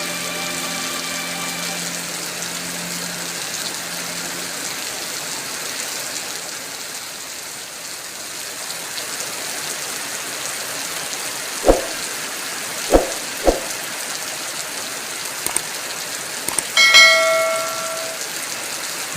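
Heavy rain falling steadily. Three sharp knocks come close together about twelve to thirteen and a half seconds in, and a short ringing tone sounds near the end.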